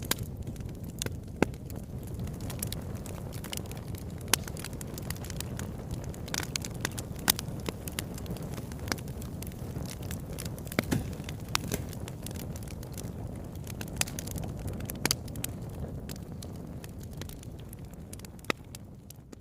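Wood fire burning in a fireplace: a steady low rumble of flames with irregular crackles and sharp pops from the burning logs, a few pops louder than the rest. It fades slightly near the end.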